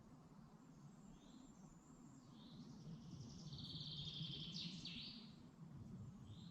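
Songbirds in a forest, faint: a short high call repeats every second or so, and another bird sings a rapid high trill for about three seconds in the middle. A steady low rumble runs underneath.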